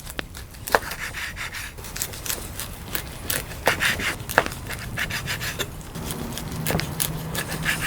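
Rubbing and scraping of food preparation on a wooden board, with many sharp clicks and knocks from utensils being handled; a low steady hum comes in about six seconds in.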